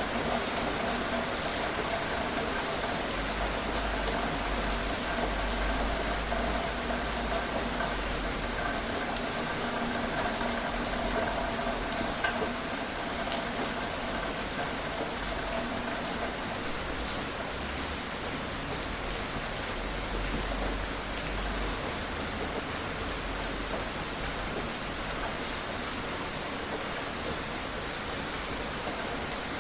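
Gentle rain falling steadily: an even hiss with scattered individual drops ticking through it.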